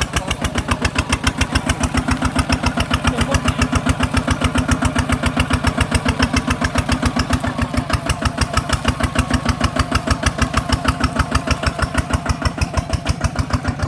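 Single-cylinder diesel engine of a ZT 155plus two-wheel walking tractor running steadily, an even, rapid chugging of about ten beats a second.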